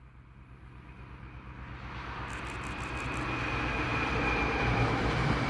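Diesel-hauled freight train of box wagons approaching and passing, its engine drone and the rumble of wheels on rail growing steadily louder.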